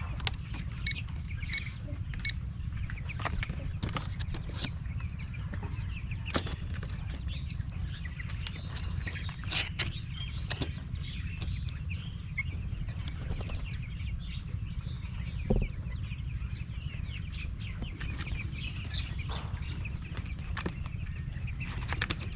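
A shed full of two-week-old broiler chicks peeping and rustling, with many scattered clicks over a steady low hum.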